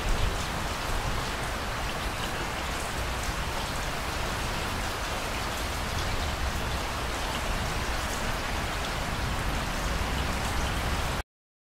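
Steady rain falling, a dense even hiss with fine drop sounds, which cuts off abruptly near the end.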